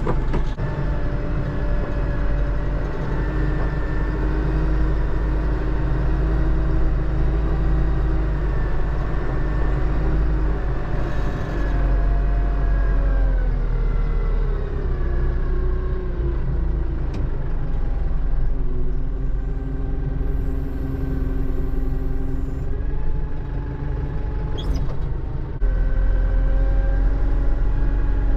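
Kubota loader tractor's diesel engine running under load, with a steady whine over it. The pitch sinks about halfway through, then rises and gets louder a few seconds before the end as the engine is throttled back up.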